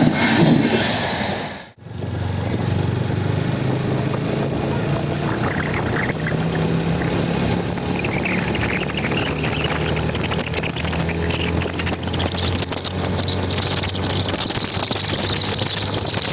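Motorcycle engine running steadily on the move, with wind rushing over the microphone. The sound cuts out briefly a couple of seconds in.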